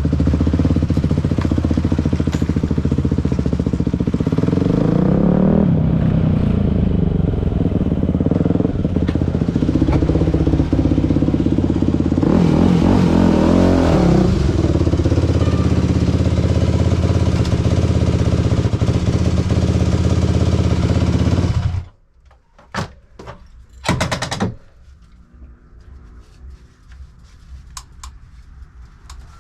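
Dirt bike engine running loudly, its pitch rising and falling with the throttle. About 22 seconds in it stops abruptly, and a few short knocks or clicks follow.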